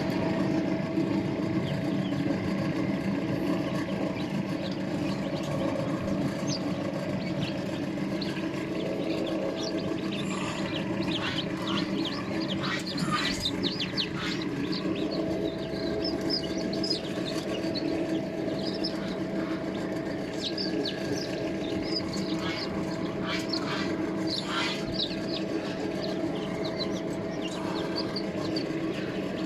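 A steady mechanical hum, with short bird chirps over it from about ten seconds in until near the end.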